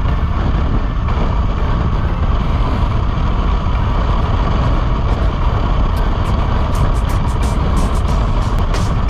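Bajaj Dominar 400's single-cylinder engine running steadily at highway cruising speed under heavy wind rush on the microphone. Short crackles come in over the second half.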